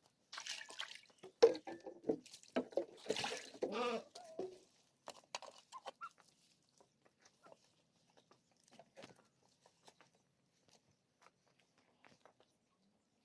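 An animal call about three seconds in, among scattered light clicks and knocks that thin out after about five seconds.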